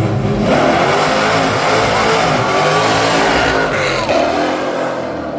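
Muscle car V8 engine revving hard in a burnout, tyres squealing in a wavering high tone over the engine.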